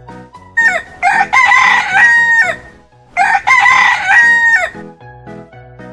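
Rooster crowing twice, two long cock-a-doodle-doo calls that each rise, hold and drop at the end, over soft background music.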